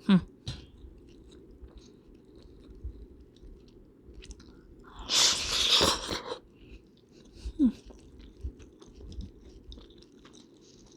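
Close-up eating sounds of chicken noodle soup: chewing and small wet mouth clicks, with a long, loud slurp of hot soup from about five to six seconds in.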